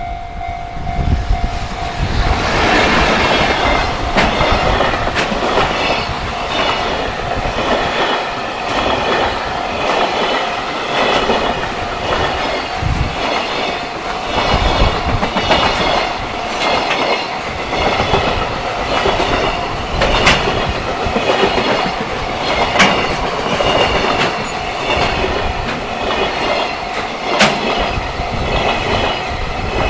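JR Freight container train passing close by behind an EF210 electric locomotive: wagon wheels clickety-clack over the rail joints in a steady repeating rhythm, with a few sharp metallic clanks, over strong wind buffeting the microphone.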